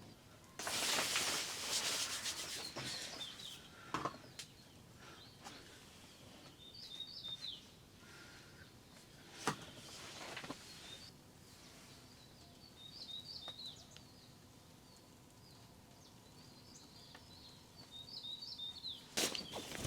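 Bursts of rustling and rubbing, the loudest about a second in and again near the end, with a few sharp clicks between them. Small birds chirp in short clusters in the background.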